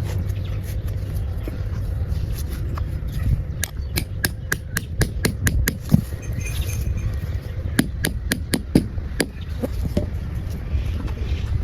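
Two quick runs of sharp taps or knocks, about four a second, over a steady low rumble.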